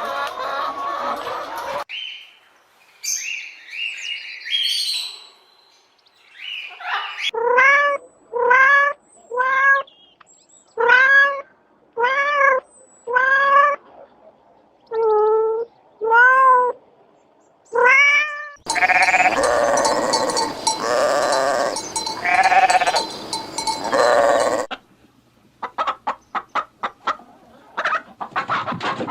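A string of farm animal calls: a few short high calls, then about ten evenly spaced bleats, each rising and falling in pitch. Next comes a harsher, noisier animal call lasting several seconds, and rapid short pulses near the end.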